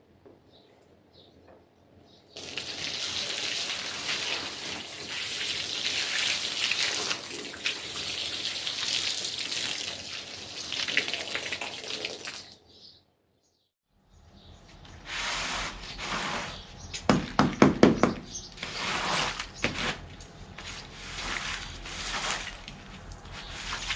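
Water on a rug being washed: a steady hiss of spraying water for about ten seconds, then, after a cut, uneven splashing and swishing with a quick run of strokes.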